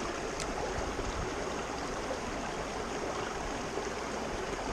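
Creek water running steadily, a continuous even rush, with one faint click about half a second in.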